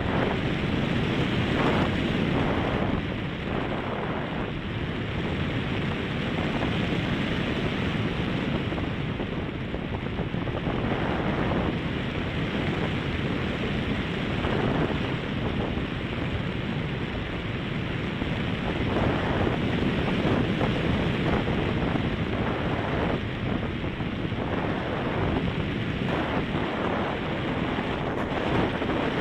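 Strong wind buffeting the microphone: a steady low rumble that swells and eases with the gusts.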